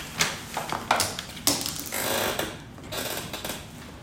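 Hard objects being handled: a run of irregular taps and clicks, with a brief rustle about halfway through.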